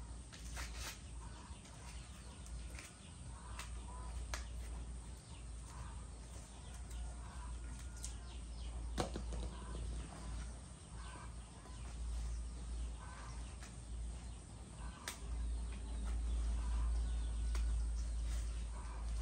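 Outdoor farm ambience: a steady low rumble with scattered sharp clicks and short animal calls, the rumble growing louder near the end.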